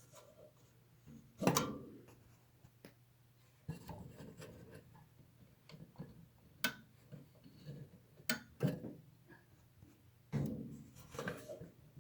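Air conditioner and heat unit clicking: faint, irregular sharp clicks and ticks at uneven gaps, with a faint low hum coming in about four seconds in.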